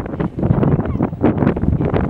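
Wind buffeting the microphone in loud, gusty rumbles.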